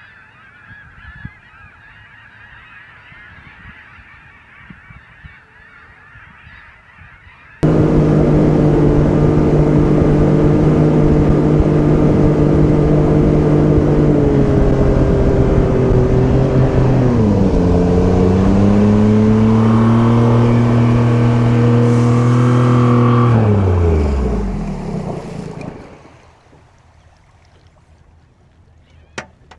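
Geese honking, then a boat's outboard motor starts loud and steady about seven seconds in. Its revs dip twice, then it winds down and stops.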